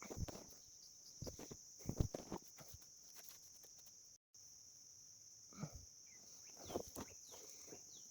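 A faint, steady, high-pitched insect chorus, with scattered soft rustles and knocks from handling close to the microphone.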